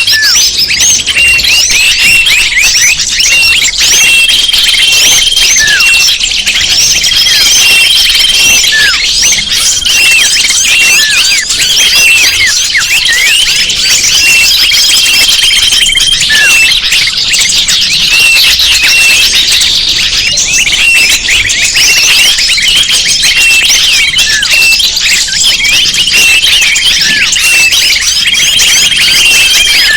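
Bird-lure recording: a dense, loud chorus of many small birds chirping and twittering, with a long steady whistled note recurring several times and a few falling whistles.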